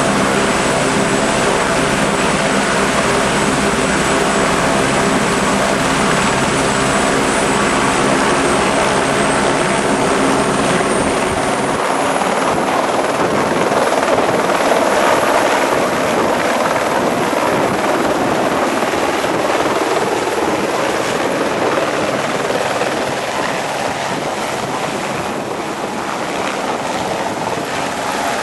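Police helicopter running close by, its rotor and turbine loud and steady, with the high turbine whine rising slightly about ten seconds in.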